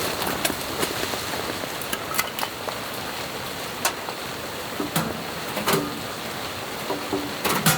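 Rain or wet snow pattering steadily on tent fabric, with scattered louder taps of individual drops, and a couple of brief low-pitched sounds in the second half.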